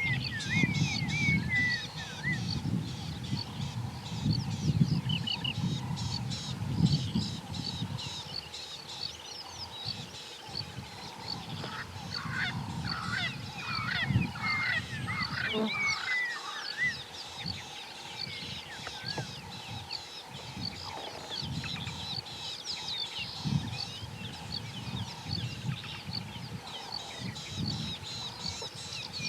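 Wild animals calling: a low, choppy run of repeated calls, loudest in the first several seconds and returning in patches, with many small birds chirping and trilling above them.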